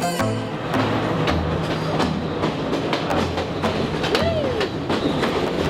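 Train running on the rails: a steady clatter of wheel clicks over a pulsing low rumble, with one short tone that rises and falls about four seconds in.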